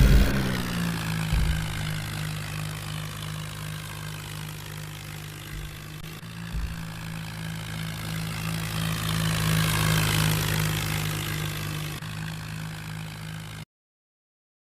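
Tractor engine running steadily, with a few low knocks and a slight rise in level about two-thirds of the way through. The sound cuts off abruptly to silence near the end.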